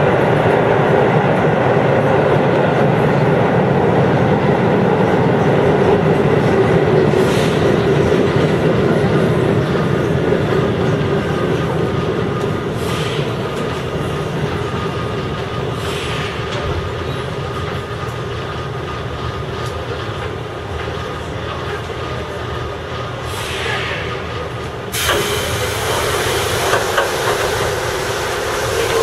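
Chiba New Town Railway 9000 series electric train running, heard from inside the front of the car: steady rumbling running noise with occasional wheel clicks. About 25 seconds in, a louder hissing noise cuts in suddenly.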